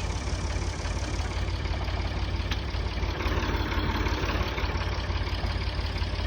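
Tractor engine idling steadily with an even, rapid firing pulse, a little louder from about three seconds in.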